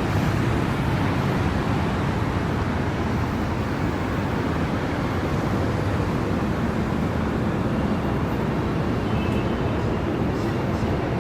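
Steady city traffic noise: a continuous low rumble with no distinct events.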